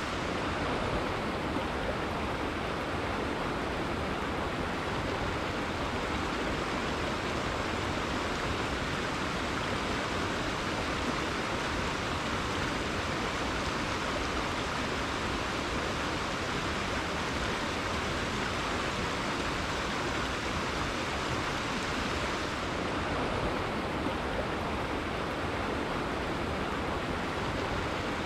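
River water flowing and rushing steadily, an even noise with no breaks or changes.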